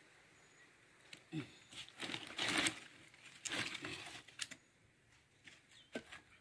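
Dry sticks and brush rustling and cracking as firewood is handled and stacked, in two louder bursts of about a second each, with scattered clicks of wood knocking.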